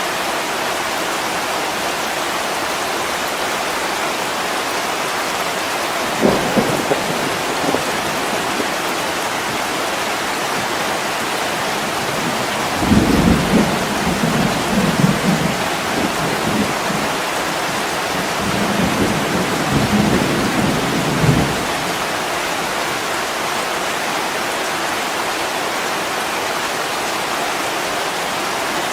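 Heavy rain pouring steadily on a window pane, with thunder rumbling under it: a brief rumble about six seconds in, then a longer, louder rumble in two swells through the middle.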